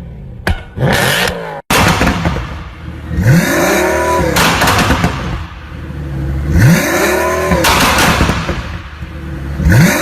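Car engine and exhaust revved hard three times, each rev rising quickly in pitch and falling away, with crackling and popping from the exhaust in between.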